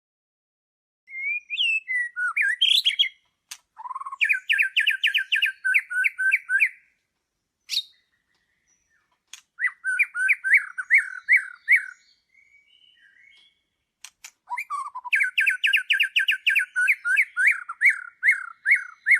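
A songbird singing several phrases with short pauses between them. Each phrase is a fast run of repeated down-slurred notes; a few scattered lead-in notes come first, and the longest run starts about a quarter of the way from the end.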